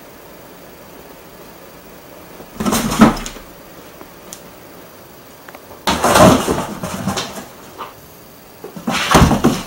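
A cat jumping into and out of a tall cardboard box: three bouts of thumps and scrabbling on the cardboard, a few seconds apart, the middle one the longest.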